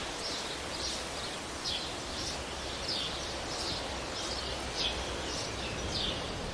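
A bird chirping over and over, short falling chirps about twice a second, over steady outdoor background noise.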